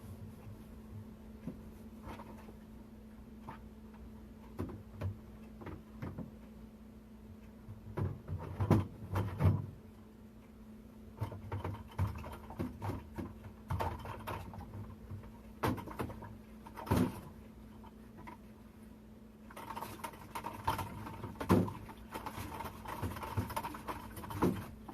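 Irregular knocks, taps and clatter of things being handled while a refrigerator is cleaned out, with a stretch of rubbing noise from about twenty seconds in, over a steady low hum.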